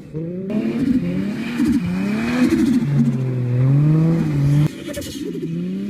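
Turbocharged Nissan Skyline straight-six engines revving, the pitch rising and falling repeatedly across several short clips cut together, with abrupt changes about half a second in and again near the end.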